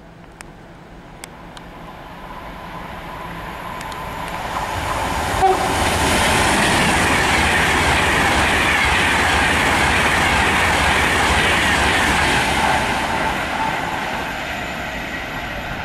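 Class 390 Pendolino electric train running through the station at speed: a rushing wheel-and-air noise that swells as it nears, stays loud for several seconds as it passes, then eases off a little, with clicking from the wheels over the rail joints.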